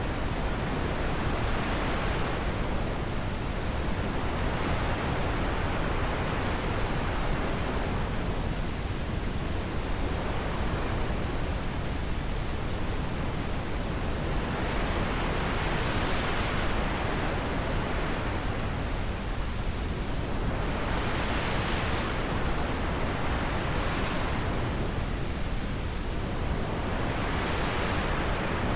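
Wind blowing in a steady rush, with gusts that swell and fade every few seconds.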